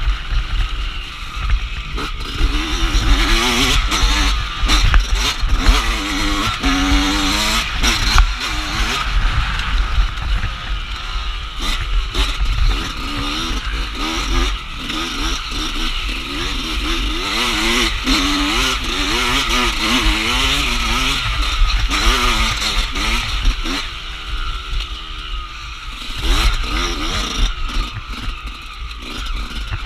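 Dirt bike engine being ridden hard, its revs rising and falling over and over.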